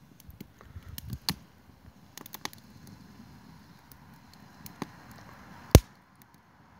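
Wood fire in a fire pit crackling, with scattered sharp pops and one loud crack near the end, over a faint low rumble.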